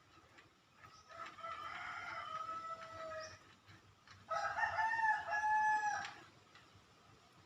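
Rooster crowing twice, each crow about two seconds long; the second is louder and higher-pitched.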